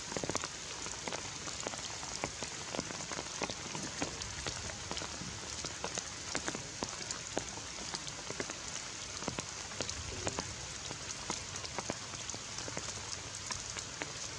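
Steady rain falling, with many sharp drops pattering close by.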